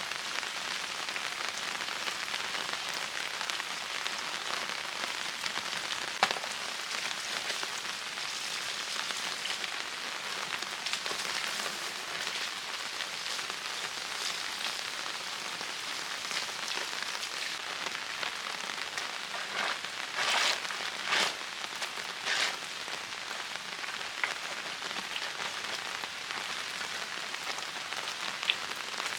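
Steady, heavy rain falling, with a few brief louder surges about two-thirds of the way in and a single sharp tap early on.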